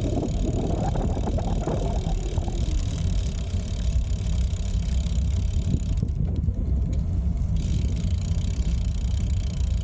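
Wind rumbling steadily on the microphone of a moving bicycle, with tyre noise on the path; the higher hiss drops away briefly a little past the middle.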